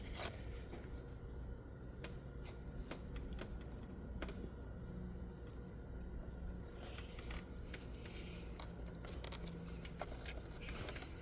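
Faint scattered ticks and handling noises over a low steady hum, as test leads are worked against the small pins of a VCT solenoid connector.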